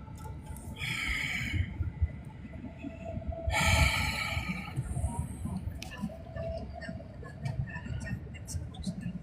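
Low running rumble of a passenger train heard from inside the carriage, with faint ticks. Two loud breaths or snorts close to the microphone come about one second and nearly four seconds in.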